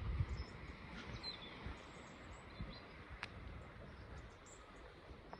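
Faint outdoor ambience with a low rumble and a few faint, high, chirping calls of small birds flying over. A single sharp tick comes about three seconds in.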